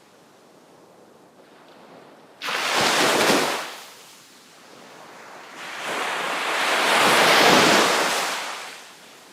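Ocean surf breaking on a shore. After a quiet lull, a wave breaks suddenly about two and a half seconds in and washes away. A longer surge of surf then builds, peaks and fades near the end.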